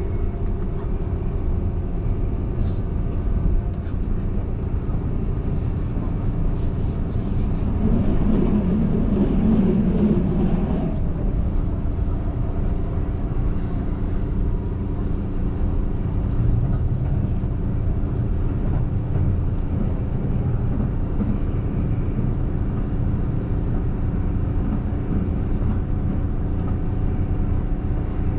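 Keihan Main Line limited express train running at speed, heard from inside the passenger car: a steady low rumble with several steady tones over it. The rumble swells louder for a few seconds about eight seconds in.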